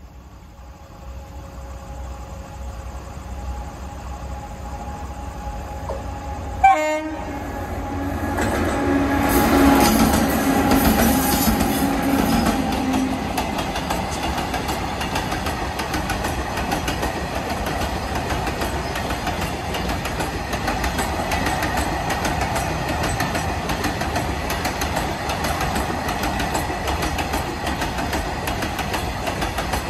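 A freight train approaches at speed with its horn sounding. The locomotive passes loudly about ten seconds in, then a long line of goods wagons rolls by with a steady rumble and clatter of wheels on rail joints.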